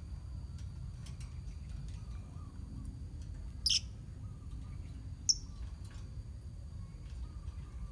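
Lovebird colony: two short, sharp shrill calls about a second and a half apart, among faint chirps and clicks over a steady low background noise.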